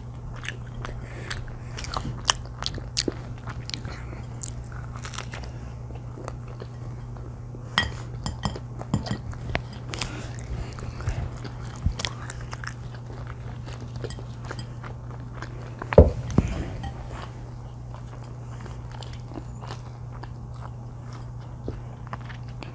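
Close-miked eating: repeated bites, crunches and chewing of crusty, cheesy food, with one loud bite about 16 seconds in. A steady low hum runs underneath.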